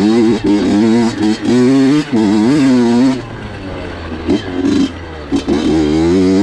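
Honda CR85 85cc two-stroke dirt bike engine revving up and down with the throttle at trail speed. About three seconds in it drops off throttle and runs quieter for a couple of seconds, then picks up again near the end.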